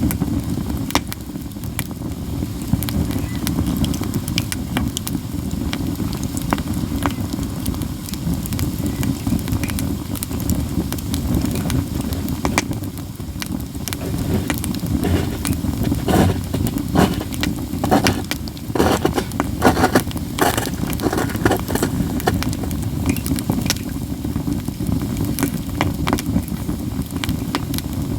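Katsura wood campfire crackling steadily over a low rumble, with scattered sharp pops and a run of louder, harder snaps about two-thirds of the way through.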